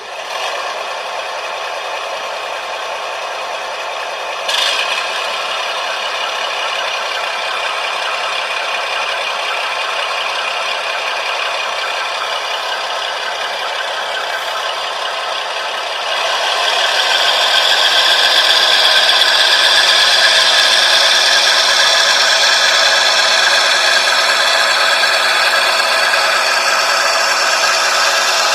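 Model train running on its track with a steady rattling clatter, getting louder about halfway through. A short click comes about four and a half seconds in.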